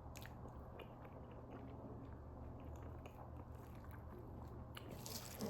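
Faint, close-miked chewing of fufu and goat soup: scattered wet mouth clicks and smacks, with a louder cluster of smacks near the end.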